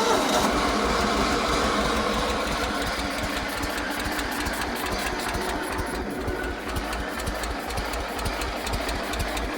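Old Toro lawnmower's engine running just after it catches on the key, with a steady low pulse. It is running poorly.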